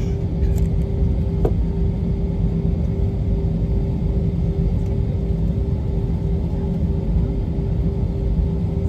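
Steady engine and airflow rumble inside the cabin of an Airbus A321 airliner, with a steady engine hum under it and one small tick about a second and a half in.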